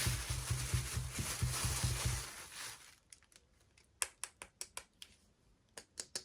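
Packaging crinkling and rustling as it is handled close up, dying away after about two and a half seconds. Then a string of small sharp clicks and taps.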